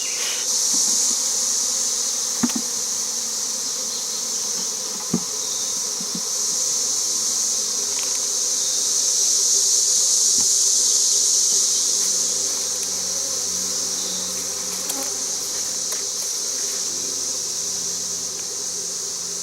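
Honey bees buzzing in a steady hum around the hive, over a loud, even, high-pitched insect drone. There are a couple of faint clicks, and the buzzing swells a little near the middle.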